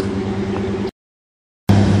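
Pickup truck engine running steadily. About a second in it cuts to dead silence for under a second, then comes back louder.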